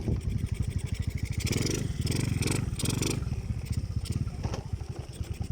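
Small motorcycle engine running, its firing pulses coming rapid and even, with a patch of higher-pitched rattle or hiss partway through.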